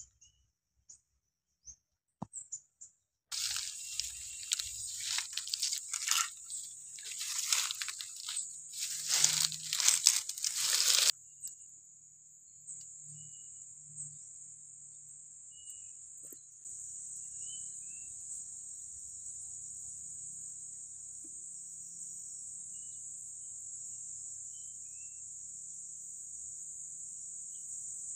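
About eight seconds of loud crunching and rustling, then a steady high-pitched insect drone in the garden, with a few faint bird chirps over it.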